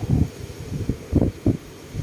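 Strong gusty wind buffeting the microphone in irregular low rumbling bursts, with trees rustling in the wind.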